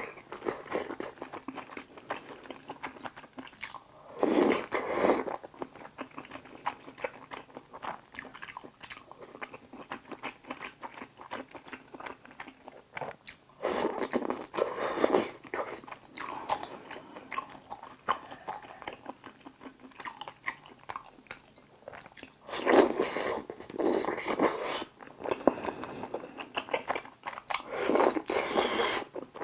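Close-miked chewing and biting of tteokbokki, its rice cakes and fish cakes in spicy sauce, a dense run of small wet clicks. It grows louder for a second or two about four times as fresh mouthfuls go in.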